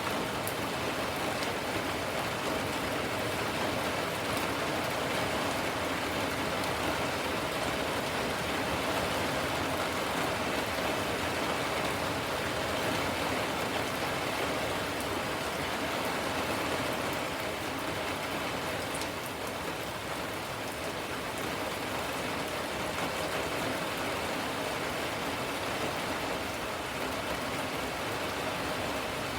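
Steady rain falling and pattering on surfaces, an even hiss with scattered drops, easing slightly in the middle.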